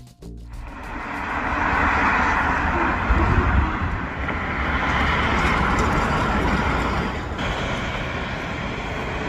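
Kawasaki W650 motorcycle on the move: engine rumble under steady rushing wind and road noise, which builds over the first two seconds and eases a little about seven seconds in.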